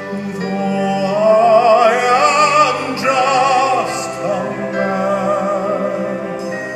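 A solo voice singing long held notes with a wide vibrato, in an operatic style, over a sustained accompaniment. The voice is strongest from about one to five seconds in.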